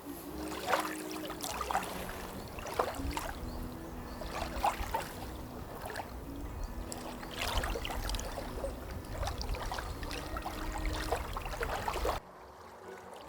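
Small lake waves lapping and splashing at the shore, with uneven splashes every second or so. The sound drops off suddenly about twelve seconds in.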